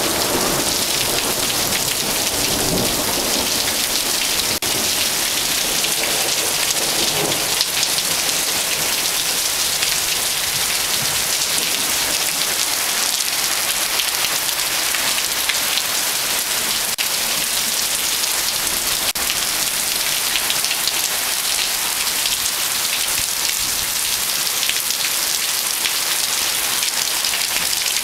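Very intense, monsoon-like summer downpour pouring steadily, with rain splashing on surfaces. A rumble of thunder dies away over the first several seconds.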